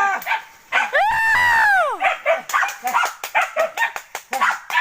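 Hunting dogs on a boar hunt giving tongue: one long drawn-out howling yelp about a second in that rises and falls in pitch, then a fast run of high, short yipping barks, several a second.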